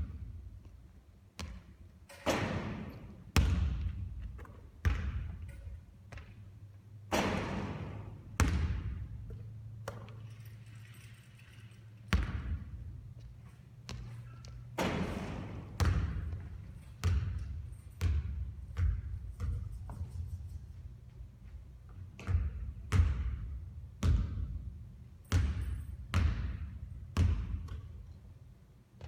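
Basketballs bouncing on a hard court during shooting practice: a run of sharp bangs, each with a short ringing tail, about one every one to two seconds.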